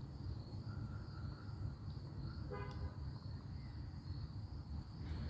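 Faint outdoor ambience: a steady low rumble under a steady high-pitched insect drone, with one short pitched toot about two and a half seconds in.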